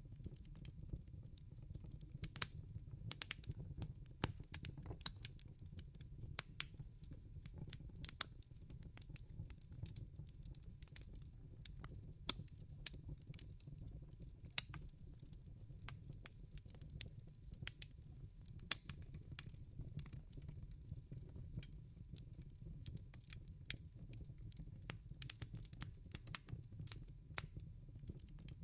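Wood fire crackling in a fireplace: irregular sharp snaps and pops, several a second, over a low steady rumble.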